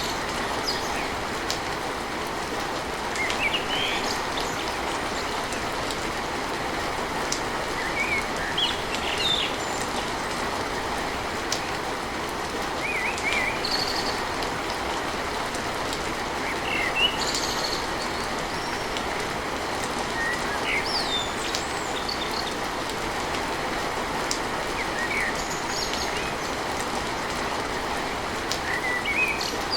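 Steady rain drumming on a tin roof, an even hiss, with birds chirping in short separate calls now and then.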